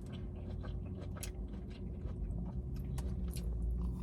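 Close-miked chewing of food, with scattered short wet mouth clicks, over a steady low background hum.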